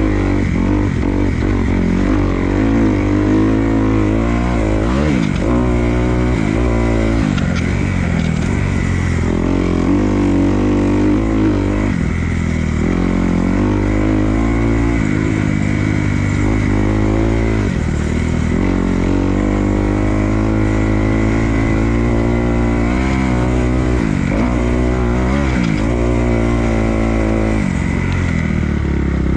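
Dirt bike engine revving up and dropping back again and again, its pitch climbing and falling every few seconds as the rider works the throttle and gears around a motocross track.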